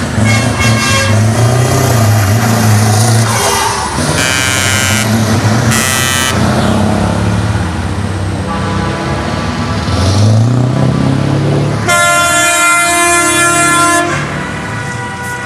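Heavy truck engines running and revving while truck air horns sound: short blasts about four and six seconds in, a long blast from about twelve to fourteen seconds, and another near the end.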